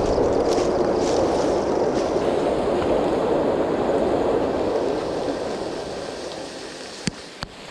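Steady rushing of running water, fading away over the last few seconds, with two sharp clicks near the end.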